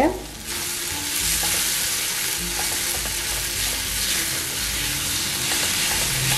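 Tomato-onion masala frying in oil in a stainless steel pan, sizzling steadily from about half a second in, while a wooden spatula stirs and scrapes it around the pan. The tomatoes have cooked down soft.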